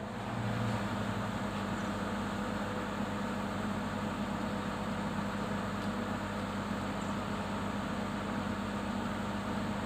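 An engine idling with a steady hum that holds an even pitch throughout.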